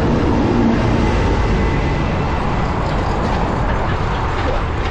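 Steady, loud wind buffeting and rushing on the microphone of a moving bicycle, heaviest in the low rumble.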